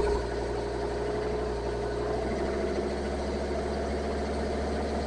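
Ford Ranger engine idling steadily, a low even hum. The tone of the hum shifts about two seconds in.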